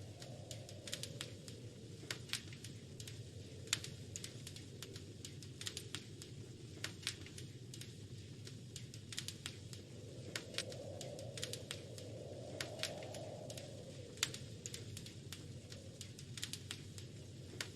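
Wood fire crackling in a fireplace: irregular sharp pops and snaps, some louder than others, over a soft steady rushing of the flames that swells twice near the middle.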